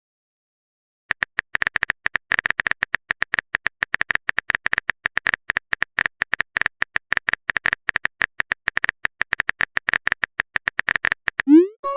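A rapid, irregular run of short clicking blips, like a text-typing sound effect, starting about a second in. A quick rising slide comes just before the end.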